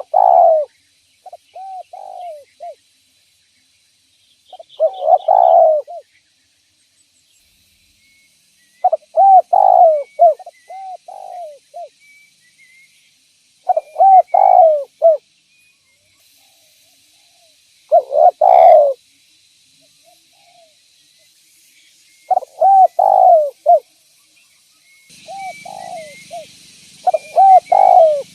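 Spotted dove cooing, a phrase of several coos about every four to five seconds, with faint chirps of small birds between the phrases.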